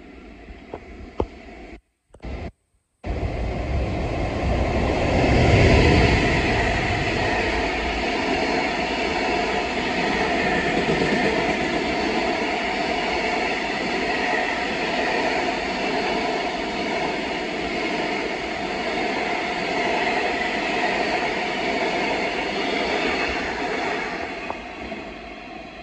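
A freight train hauled by a JR Freight EF210 electric locomotive passing at speed, followed by a long string of mostly empty container flat wagons rolling by with steady wheel-on-rail noise. It is loudest as the locomotive goes by about five seconds in, then holds steady and eases near the end; the sound cuts out twice briefly about two seconds in.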